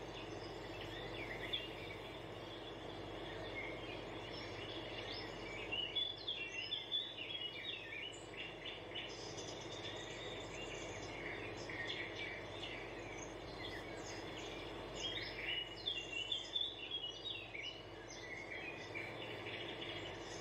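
Birds chirping on and off in the background, busiest about a third of the way in and again past the middle, over a steady low background noise.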